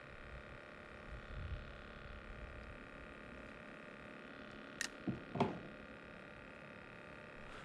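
Faint steady background hiss, broken about five seconds in by a sharp click and then two short knocks.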